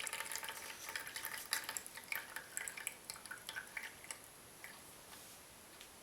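Water trickling and dripping out of a toy coffee maker into the cup below, in small irregular drops that thin out and stop about four seconds in.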